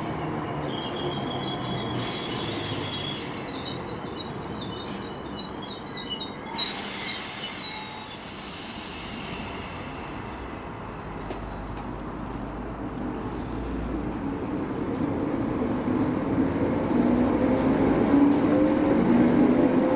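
Train at a station platform: high-pitched wheel squeal wavering for the first several seconds, with a sharp knock partway through. Then a steady rumble, and a whine rising in pitch and growing louder near the end as an electric train picks up speed.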